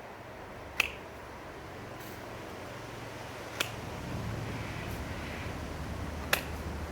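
Three sharp snaps, roughly three seconds apart, as twigs are cut or broken off a bee-swarm branch to lighten it. A low wind rumble on the microphone grows louder about halfway through.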